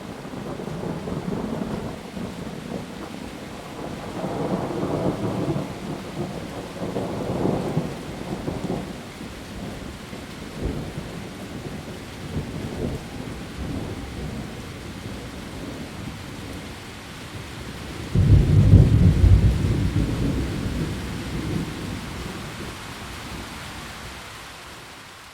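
Heavy rain falling steadily on leaves, with rolling thunder in the first several seconds and a sharp, louder thunderclap about 18 seconds in that rumbles away over the following seconds.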